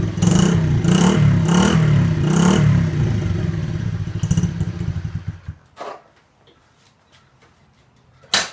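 Dirt bike engine running and revved in about four quick blips, then running on until it cuts out suddenly about five and a half seconds in. A few faint clicks follow, and a sharp click near the end.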